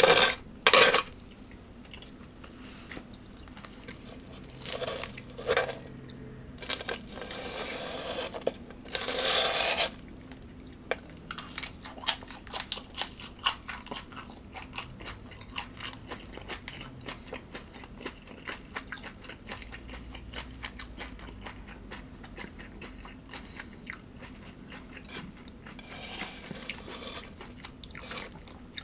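Close-up sound of a person biting and chewing crunchy food. It opens with a couple of sharp clicks, has a loud crunching spell about nine seconds in, then settles into steady soft crackly chewing.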